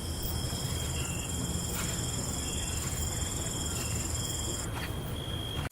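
Night insect chorus: crickets trilling in steady high-pitched tones, with short shorter chirps between, over a low steady rumble.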